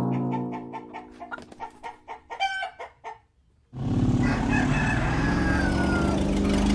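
Chickens clucking in a quick run of short calls with a rooster crowing, over the first three seconds. The calls break off into a brief silence, and then a steady, louder sound comes in.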